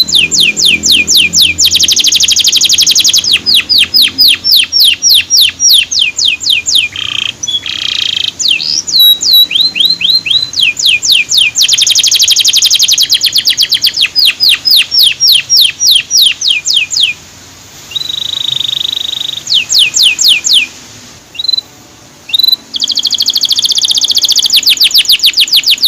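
Male canary singing: long runs of rapidly repeated high falling "cuit" notes, several a second, broken by faster trills and a held steady whistle about two-thirds of the way through.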